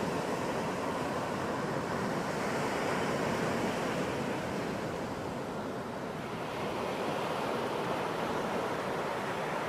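Ocean surf washing onto a beach, a continuous rush of waves that swells about three seconds in, eases, and builds again near the end.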